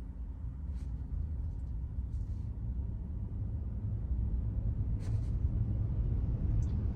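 Low road and tyre rumble inside a Tesla's cabin while it drives, slowly growing louder, with a faint click about a second in and another near five seconds.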